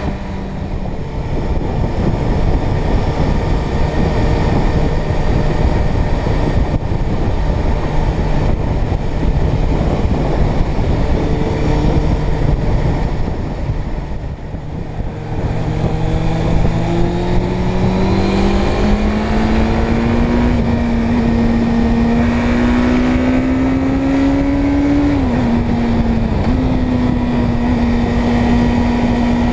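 Inline-four motorcycle engine under way, with steady wind rush on the microphone. Its note eases off about halfway through, then climbs steadily for several seconds, with a short dip in pitch near the end.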